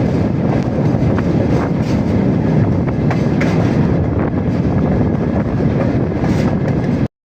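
Railway wagon rolling along the track, with steady wheel rumble, scattered clicks and squeaks from the running gear, and heavy wind buffeting the microphone as it rides on the moving car. The sound cuts off abruptly near the end.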